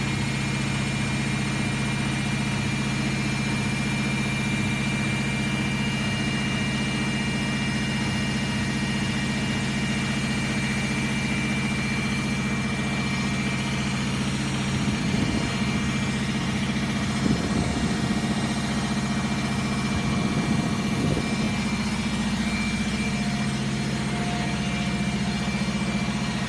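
Domestic washing machine running with a steady, unchanging motor hum and a faint high whine above it.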